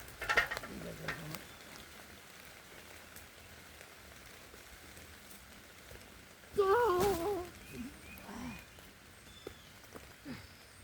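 Steady rain falling, with a man's short wavering strained vocal sound of effort about seven seconds in, while he lifts a cement-filled bucket in curls. A few light knocks and a lower falling vocal sound come in the first second or so.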